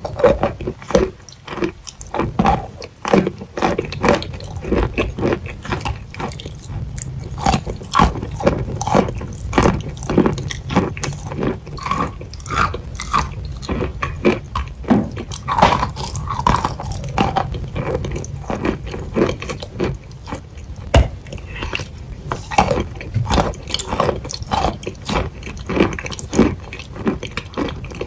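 Close-miked biting and chewing of a crumbly food, a dense run of short sharp crunches and mouth smacks.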